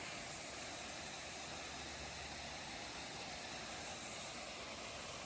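Faint, steady rushing of a waterfall.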